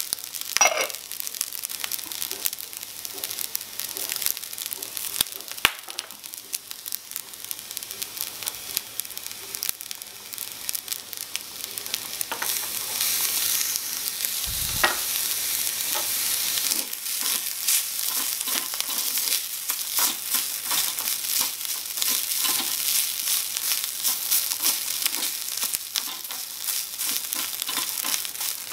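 Fried rice sizzling and crackling in a miniature aluminium wok over a small flame, with a wooden spatula stirring and scraping through it, louder in the second half. A metal clink sounds about half a second in, and a single dull knock around the middle.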